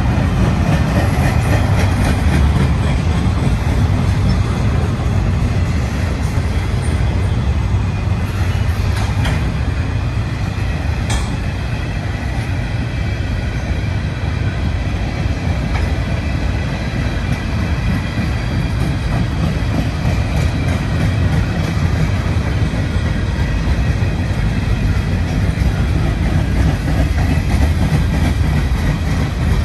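Freight cars, container well cars and then empty open-top gondolas, rolling past at track level: a steady rumble of steel wheels on the rails.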